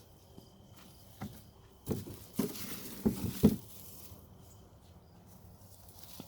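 Handling of freshly pulled onions: several dull knocks and rustles, the loudest about three and a half seconds in.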